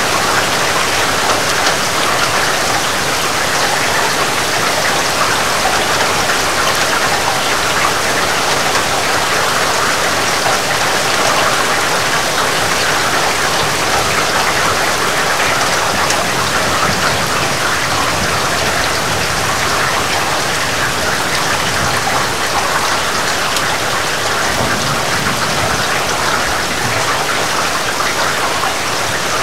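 Heavy rain falling steadily, a dense even hiss of countless drops on surfaces.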